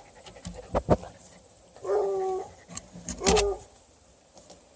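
A dog whining: two short whines, a second or so apart, each holding a steady pitch. A few sharp knocks or bumps come just before, under a second in.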